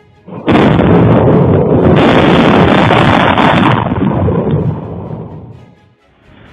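Close thunderclap: a sudden, very loud crash about half a second in that rumbles on for about three seconds, then dies away.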